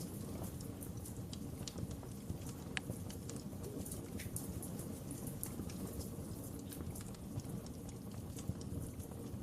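Wood fire burning in a fireplace: a steady low rush of flames with irregular sharp crackles and pops of burning wood, one louder snap a little under three seconds in.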